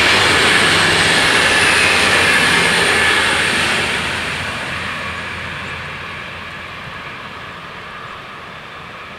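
A DB class 612 diesel multiple unit passing close by on the track. It is loud for about three seconds, then fades steadily as it draws away.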